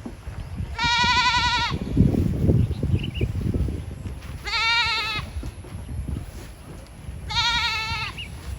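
A farm animal bleating three times, each a high, quavering call about a second long, spaced a few seconds apart. Low rumbling and thuds sound between the first two calls.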